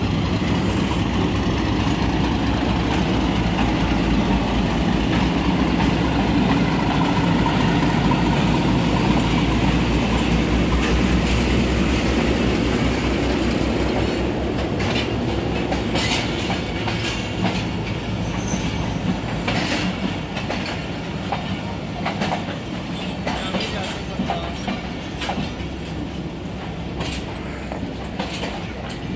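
A diesel locomotive hauling a passenger train runs past. Its low engine rumble is loudest in the first half, then the coaches roll by with wheels clacking over the rail joints as the sound slowly fades.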